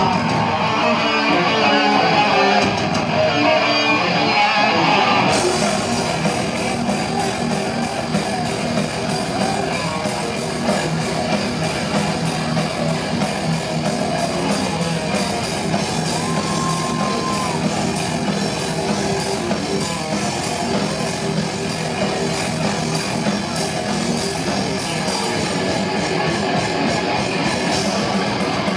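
Live heavy metal band playing with distorted electric guitars; the cymbals and full band come in suddenly about five seconds in.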